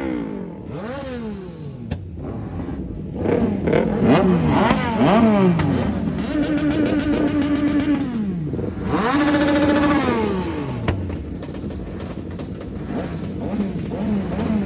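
Sport motorcycle engine revving: a run of quick throttle blips, then the revs held steady and high twice, for a second or two each, before falling back.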